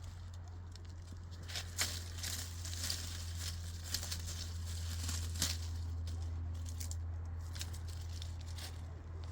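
Rustling, crinkling handling noises with several sharp clicks, over a steady low hum.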